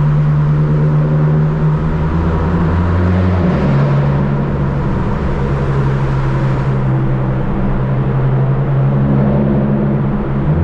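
Stage 2 tuned Volkswagen Polo GTS's turbocharged 1.4 TSI four-cylinder running through its sport exhaust at steady, moderate revs, the engine note stepping to a different pitch about a third of the way in.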